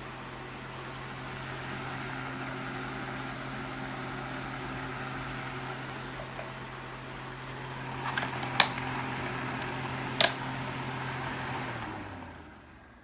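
Holmes Lil' Blizzard 8-inch oscillating desk fan running on high with oscillation: a steady airy rush over a low motor hum. Two sharp clicks come about two thirds of the way in as the control is switched, then the motor winds down, its hum sliding lower and fading.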